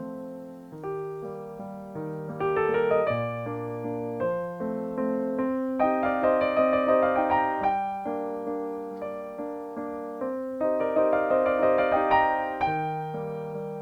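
Solo piano music: a melody of notes struck over sustained chords, each note starting sharply and dying away.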